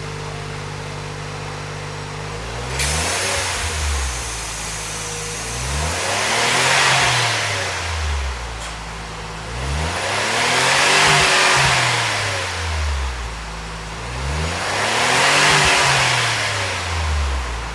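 Suzuki Jimny JB64's 660 cc turbocharged three-cylinder engine breathing through a Kudoh Jidosha high-position aftermarket muffler: idling steadily, then revved four times, each rev rising and falling smoothly over a couple of seconds before dropping back to idle.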